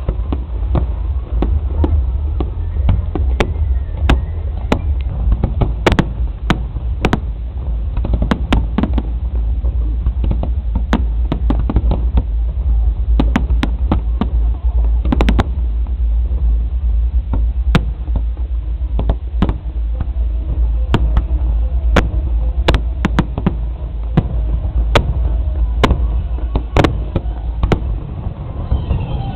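Fireworks display going off: a rapid, irregular string of sharp pops and crackles from bursting shells over a continuous deep rumble.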